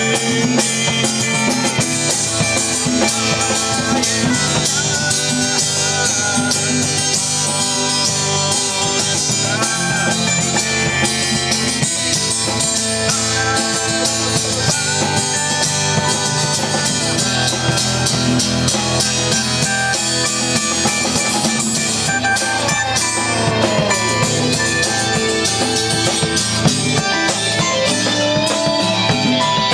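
Live rock band jam: guitars playing over drums and percussion, with a lead guitar line of gliding, bent notes in the second half.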